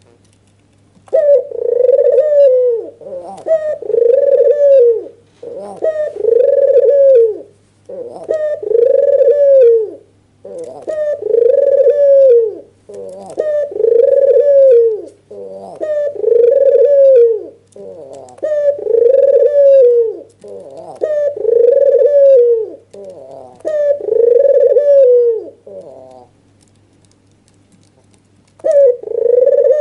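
Albino ringneck dove (white, red-eyed puter) cooing loudly in a long series of rolling coo phrases, about one every two seconds. It pauses for a couple of seconds near the end, then starts again. A faint steady low hum runs underneath.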